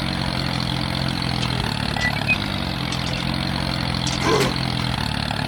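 Steady low drone of an engine running at idle, with a short rising sound about four seconds in.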